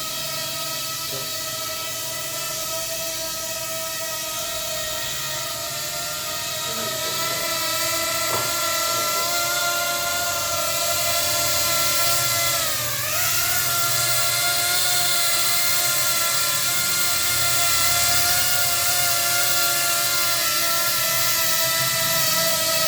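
Small electric motors with propellers on a homemade four-motor RC plane running at speed, a steady high whine that dips briefly in pitch about halfway through, then comes back up.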